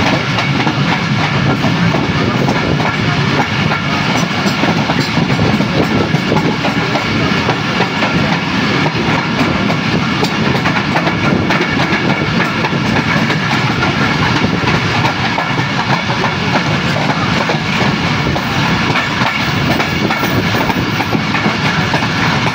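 Passenger train coach running on the rails, heard from on board: a steady loud rumble of wheels with a continual irregular clatter over the track, and a faint steady ringing of the running gear above it.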